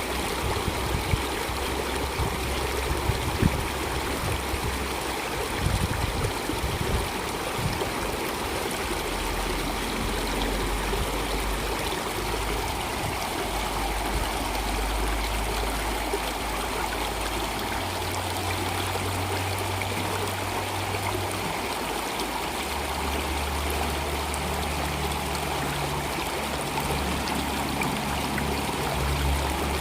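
Water flowing steadily in a stream, a continuous rushing and trickling, with a few sharper splashes in the first several seconds. Low sustained tones sit underneath, shifting in pitch every few seconds.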